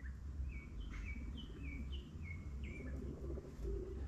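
A small bird calling a quick series of short, falling chirps, about three a second, stopping about three seconds in, over a low steady rumble.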